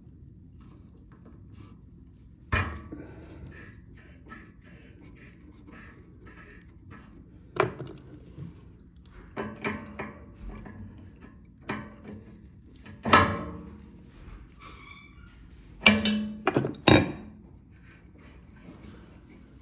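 Scattered knocks and clunks, about eight in all, as tools and parts are handled during repair of a leaking steam valve, with faint clatter between them; the loudest come about two-thirds of the way through.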